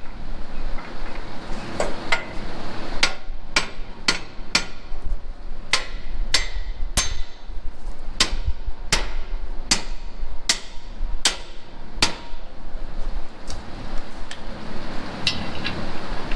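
Hammer blows on metal: a steady series of sharp, ringing strikes, about one to two a second, thinning out near the end.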